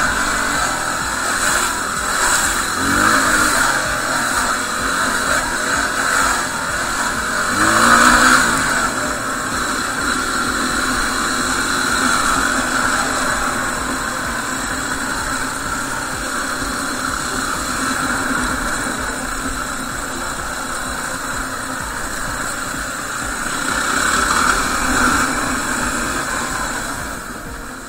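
Single-cylinder engine of a 2016 Yamaha WR250R dual-sport motorcycle running under way, rising in pitch as it accelerates about three seconds in and again, loudest, about eight seconds in, over a steady rush of wind noise.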